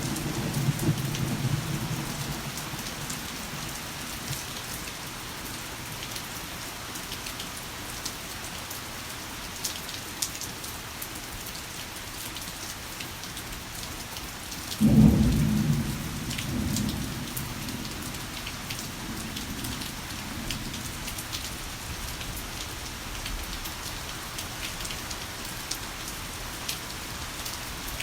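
Heavy rain falling steadily with rolling thunder: a rumble fades out over the first few seconds, then a sudden thunderclap about halfway through rumbles on for several seconds.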